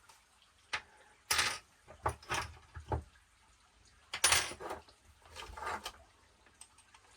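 Irregular clatter and knocks of parts and tools being handled while the gear cover is refitted on an RC monster truck, in about six short bursts, the loudest a little past four seconds in.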